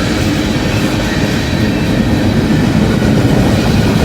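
Freight cars of a long mixed manifest train rolling past close by: a loud, steady rumble and clatter of steel wheels on the rails.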